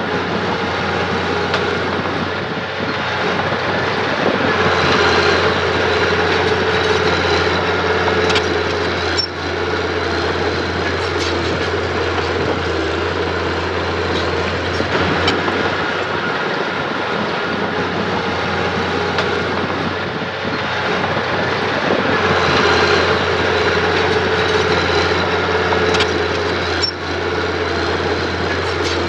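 Engine of a working earthmoving machine running steadily, swelling louder twice as it takes load, with a couple of short knocks.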